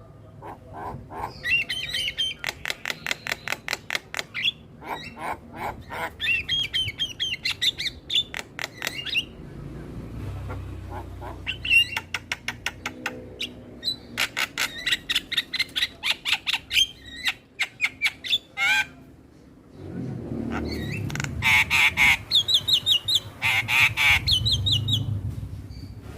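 Starlings (jalak) chattering: rapid trains of clicks mixed with harsh squawks and warbled notes, in three bouts with short pauses between them.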